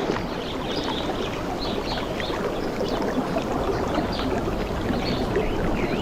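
Water washing steadily, with birds chirping in short high notes now and then.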